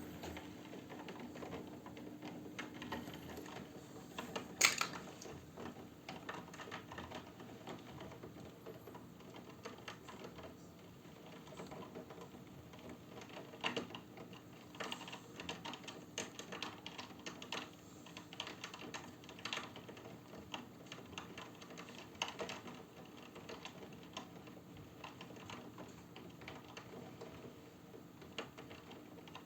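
Raindrops tapping irregularly on a hard surface during a thunderstorm, with a louder tap about five seconds in and a steady low hum underneath.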